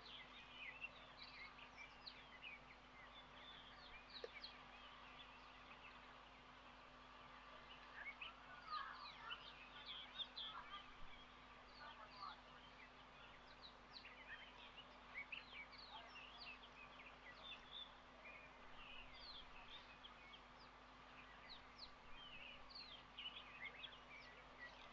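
Faint, scattered chirps and calls from several birds, busier from about eight seconds in, over a steady low hum.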